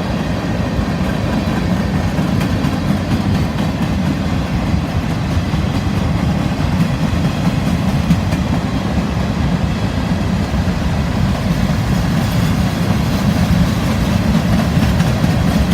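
CSX freight train rolling past: a loud, steady rumble of steel wheels on rail, with faint repeated clicking from the wheels.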